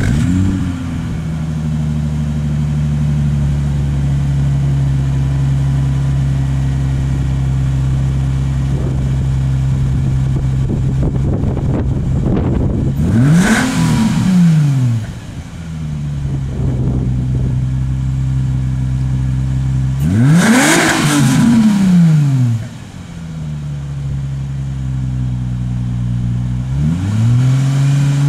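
Infiniti G35's 3.5-litre V6, fitted with DC headers and a Stillen exhaust, idling steadily and blipped twice, each rev rising sharply and falling back to idle over about two seconds, with a third rev starting near the end.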